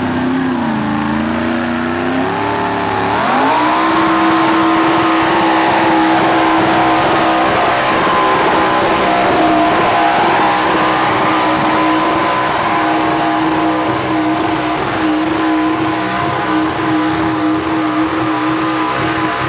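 Modified-class pulling tractor's engine at a tractor pull: it revs unevenly for a few seconds, then climbs sharply to full throttle about three seconds in and holds a steady high pitch under load for the rest of the pull.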